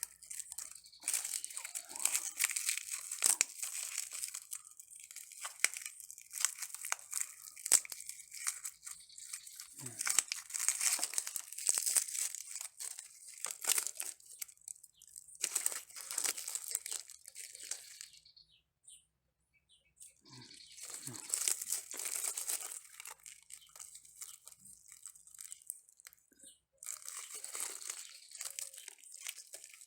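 Faded bird of paradise flower head being pulled apart by hand to look for seeds, its dry bracts and petals tearing and crinkling in irregular runs, with a short pause a little past the middle.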